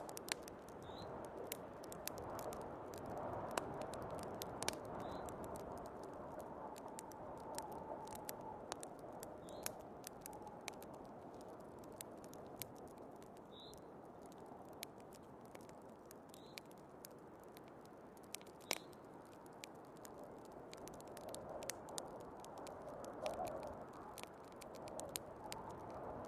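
Wood fire crackling in a fireplace, with frequent irregular sharp pops, over a soft rushing of snowstorm wind that swells and eases.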